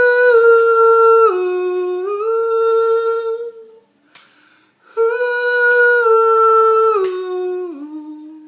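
A lone voice humming a wordless melody with no accompaniment, in two long phrases of held notes. In the first, the pitch steps down and back up; the second steps down twice near its end and fades out.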